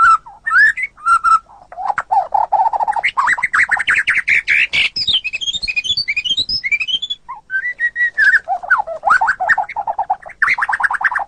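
White-rumped shama (murai batu) singing a long, varied song of short clear whistles and fast trills of repeated notes, with a quick run of rising notes midway. There is a brief pause about seven seconds in.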